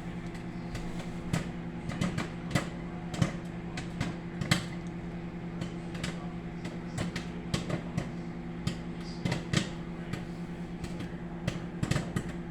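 Microwave popcorn popping in its bag: irregular sharp pops, a few a second, over the microwave oven's steady hum.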